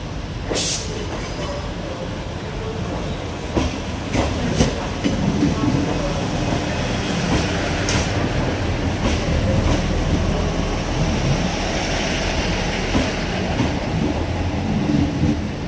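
ScotRail Class 158 diesel multiple unit pulling slowly into a platform, its diesel engines running under a steady low rumble. Sharp clicks come as the wheels cross rail joints and pointwork, several in the first half.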